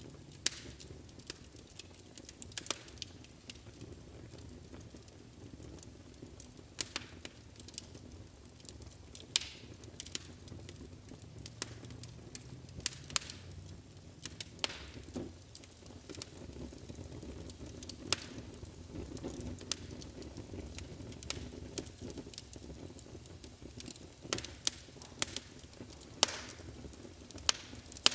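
Wood fire burning in a fireplace: a steady low rumble under irregular sharp crackles and pops.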